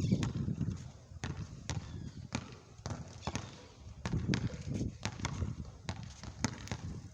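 Basketball being dribbled on a hard court, bouncing in a steady rhythm of about two to three bounces a second.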